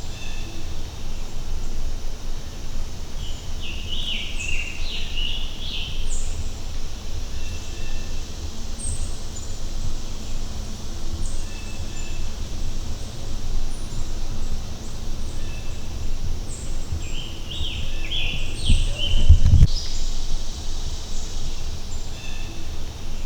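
Woodland birds singing: two bursts of rapid chirping song and scattered short high chirps, over a steady low rumble. A low thud comes near the end of the second burst.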